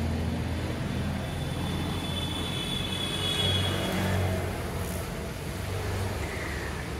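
A Hyundai SUV's engine idling with a steady low hum.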